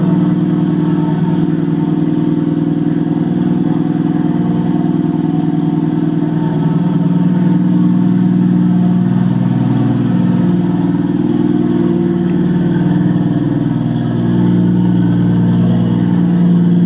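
Turbocharged Lexus IS300 2JZ inline-six running on its first start after an engine rebuild, mostly steady at idle. It wavers slightly in the middle, and the loudness dips briefly about fourteen seconds in, then comes up a little.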